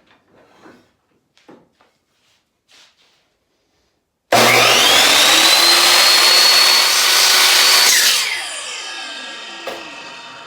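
A few faint knocks, then a Ryobi miter saw's motor switches on suddenly about four seconds in, its whine rising quickly to a steady high pitch. After about three and a half seconds it is released and spins down, the whine falling and fading slowly.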